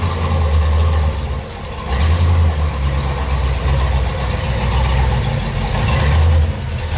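1968 Ford's engine running loud as the car is driven up, its low rumble swelling and easing a few times with the throttle.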